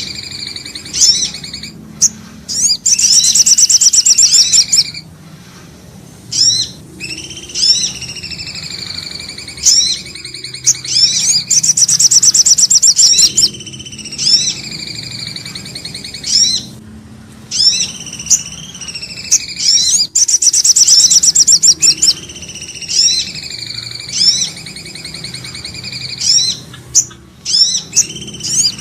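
Bird-lure recording of common iora (cipoh) and sogo ontong calls, repeating in the same cycle about every nine seconds. Each cycle has sharp hooked notes and slurred whistles, then a loud, fast trill lasting about two seconds.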